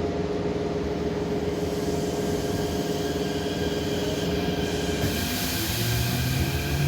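Keikyu 1500 series train running on its Mitsubishi IGBT VVVF inverter drive, with steady tones over rumbling wheel noise. About five seconds in, a whine from the inverter and traction motors starts rising in pitch as the train picks up speed.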